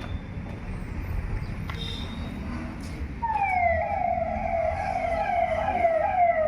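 A siren-like tone starts about halfway through and sweeps downward over and over, roughly twice a second, over a steady low vehicle rumble.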